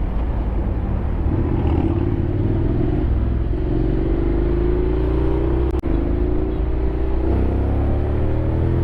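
Honda X-ADV 750's parallel-twin engine pulling under acceleration, its pitch rising steadily over the last five seconds, over a heavy low rumble. A brief click and dip in level comes just before six seconds in.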